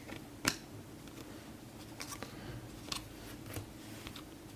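Glossy Topps Chrome trading cards being handled and slid over one another, giving a few faint clicks and snaps, the sharpest about half a second in.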